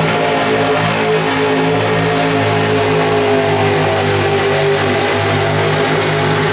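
Pro Street two-wheel-drive pulling truck's engine running loud at high revs, its pitch holding fairly steady with a slight rise near the end.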